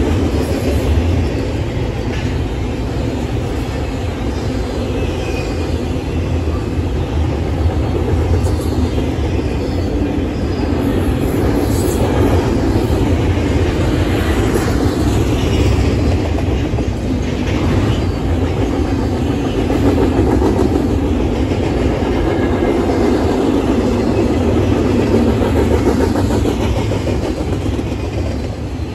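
Double-stack intermodal freight train's loaded container well cars rolling past: the steady, continuous running noise of steel wheels on the rails.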